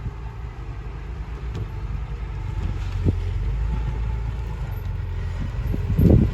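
Heavy diesel construction machinery running with a steady low rumble that swells slightly about halfway through. There is a single knock about three seconds in and a cluster of louder low thumps near the end.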